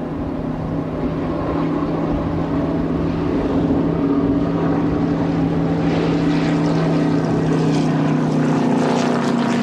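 A motor droning at a steady pitch, slowly growing louder.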